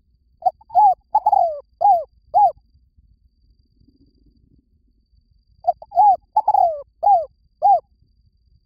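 Spotted dove cooing: two phrases of about five short coos each, every coo sliding down in pitch. The first phrase comes about half a second in and the second about five and a half seconds in. This is the standard decoy coo used to lure doves.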